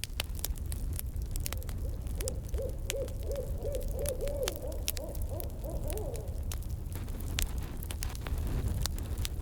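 An owl giving a rapid run of hoots, about three a second, lasting four to five seconds, over a crackling campfire with steady pops and snaps.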